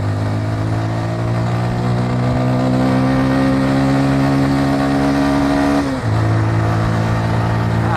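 Motorcycle engine pulling under acceleration, its pitch rising steadily, then dropping sharply about six seconds in as the rider shifts up a gear and it runs on steadily.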